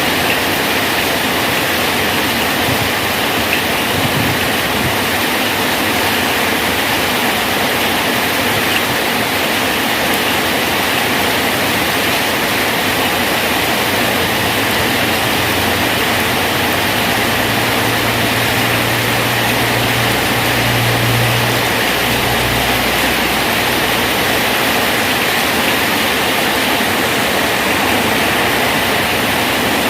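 Steady, heavy rain falling on a bridge. About halfway through, a low engine hum swells and then fades away.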